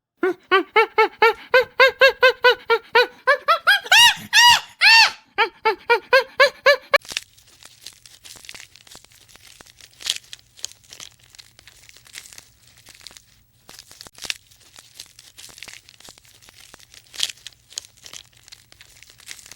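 An animal's rapid run of short, high squeaky calls, about five a second, for the first seven seconds, a few sliding up higher partway through. Then the calls stop and quieter, irregular crunching and crinkling follows.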